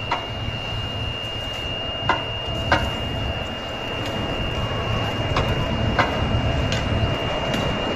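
Train running on the rails: a steady low rumble with sharp clicks every second or so, and a thin steady high tone over it, growing louder near the end.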